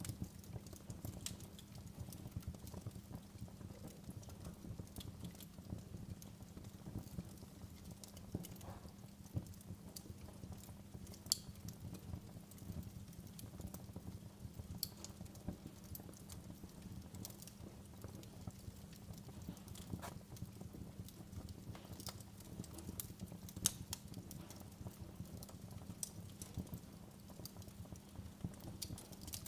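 Wood fire burning in a fireplace: a low, steady rumble with irregular crackles and pops, two sharper pops standing out about eleven and twenty-four seconds in.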